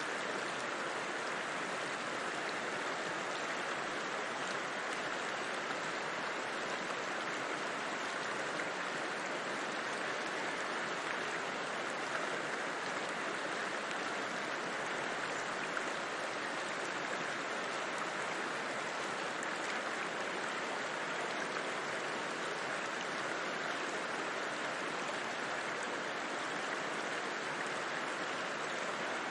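A river flowing in a steady, even rush of water, with no single splash standing out.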